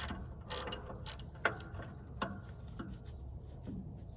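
Socket ratchet wrench clicking and metal tool knocks while loosening an engine bolt, in a scattered, uneven run of sharp clicks.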